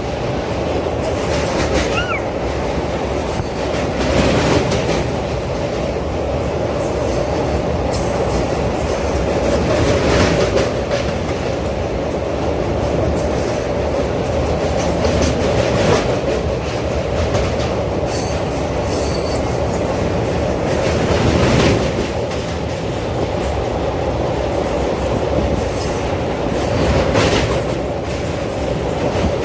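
Train running along the track: a steady rumble of wheels on rails with a constant hum, swelling briefly about every five or six seconds.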